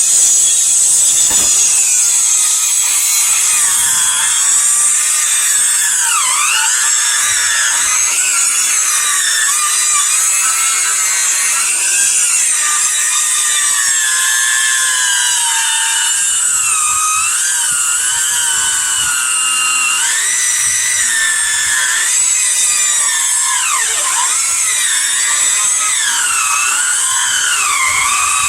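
Chainsaw cutting into a thick log, running continuously. Its motor whine sags in pitch as the chain bites and bogs in the wood, then recovers, with two deep dips, one about six seconds in and one near the end.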